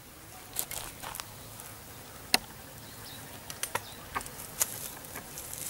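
Small firearm being loaded by hand: a scatter of light clicks and one sharper, louder click about two and a half seconds in.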